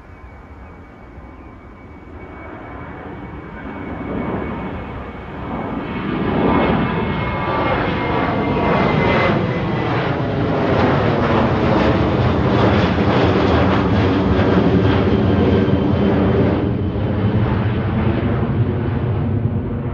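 Departing airliner's engines at takeoff power as it passes the airport perimeter. The noise swells over the first six seconds, stays loud with pitch sweeps as it goes by, and eases a little near the end.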